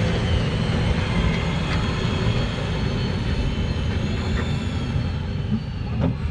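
Sherp 10x10 all-terrain truck on the move, its engine and drivetrain giving a steady low rumble.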